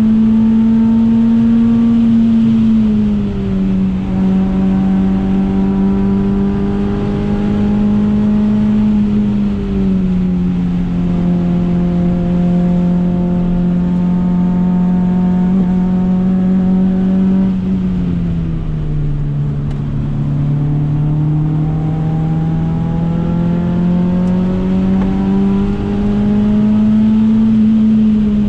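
Renault Clio 172 RS's 2.0-litre four-cylinder engine heard from inside the cabin at high revs. Its note climbs slowly, then drops suddenly, four times at intervals of about seven to ten seconds, over steady road and wind noise.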